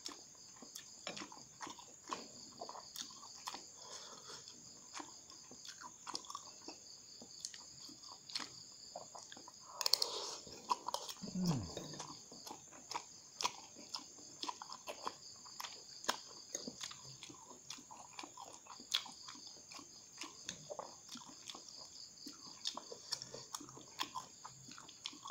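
Close-up mouth sounds of someone eating noodles: chewing and smacking, with light clicks of a fork against a glass bowl, and one louder mouth sound about ten seconds in.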